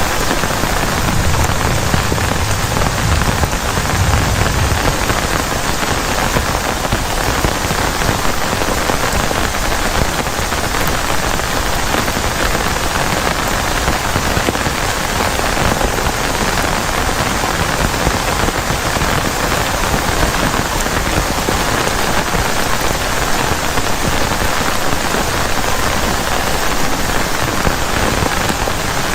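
Heavy rain falling steadily on a plastic tarp, with a low rumble during the first few seconds.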